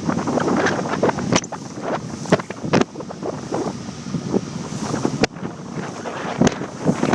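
Wind buffeting the microphone in uneven gusts, with several sharp pops from the mic being hit by the wind.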